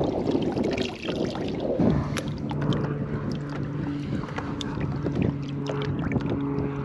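Water splashing and dripping around a kayak as a caught bonefish is handled, with many small sharp drips and ticks. About two seconds in, a steady low hum of several held tones comes in underneath.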